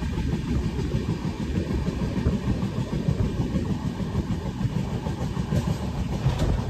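Passenger train rolling along the track, heard from aboard a coach: a steady low rumble of wheels on rails with rushing air.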